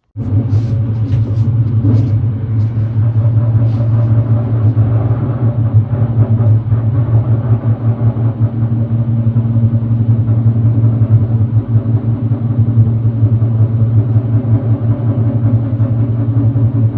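Loud, steady low rumble of construction machinery running inside the apartment building, with a fast flutter to it and a few light clicks in the first two seconds.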